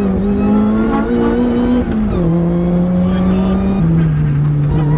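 Supercharged Saab 2.2-litre engine in a Vauxhall VX220 running hard. Its note holds steady, then drops in pitch in sudden steps about two seconds in and again near four seconds.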